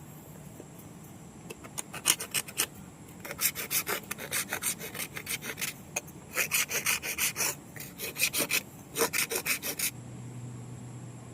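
Quick back-and-forth rasping strokes, a hard coconut shell being filed or scraped by hand, in several runs of about four or five strokes a second with short pauses between them, stopping about ten seconds in.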